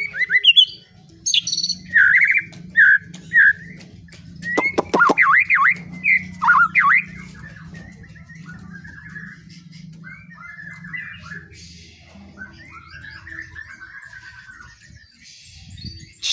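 A songbird singing a varied song: loud clear whistles and swooping phrases, with a quick run of sharp clicks about five seconds in, then quieter chattering trills from about eight seconds on. A steady low hum runs underneath.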